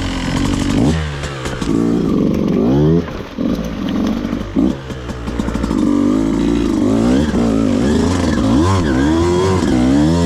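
Beta 200RR dirt bike's two-stroke single-cylinder engine revving up and down repeatedly, its pitch rising and falling every second or so under throttle, with a couple of brief drops off the gas.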